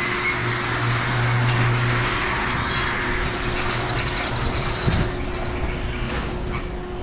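Chamberlain myQ garage door opener running and the door moving along its track, a steady mechanical rumble; a low hum drops out about two seconds in, and there is a single thump about five seconds in.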